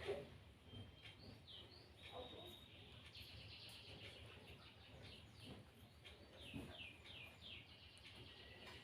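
Faint bird chirping: a few short high calls at first, then from about three seconds in a steady run of quick, repeated falling chirps.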